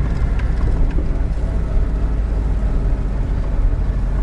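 GAZelle Next van driving, heard from inside the cab: a steady low engine and road drone with a few faint rattles.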